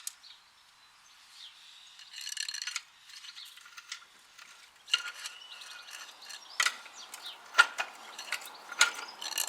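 Metal clicks, rattles and clanks of a trolley jack being worked under a motorcycle engine as it is shifted into the frame. There is a short rattling stretch about two seconds in, then a run of sharp clanks from about halfway.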